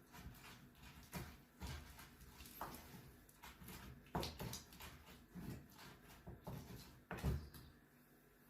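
Spices being ground by hand: an irregular series of knocks and scrapes, the loudest a little after seven seconds.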